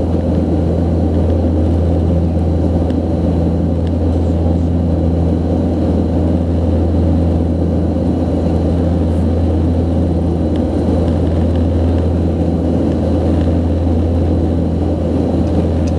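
Antonov An-24's twin turboprop engines running with a loud, steady, deep propeller drone.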